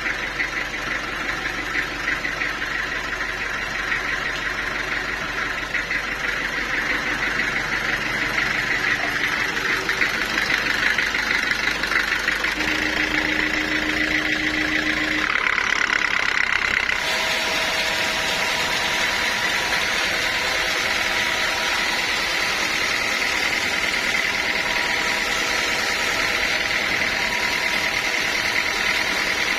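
Sawmill machinery running steadily, with a constant engine-like hum; the sound changes abruptly about halfway through.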